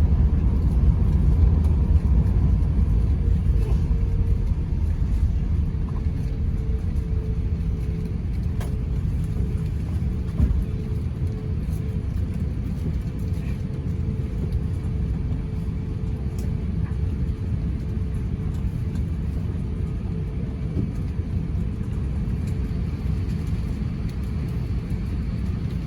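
Low rumble inside the cabin of an Airbus A350-900 rolling on the ground after landing. It eases off over the first several seconds, then holds steady with a faint steady hum.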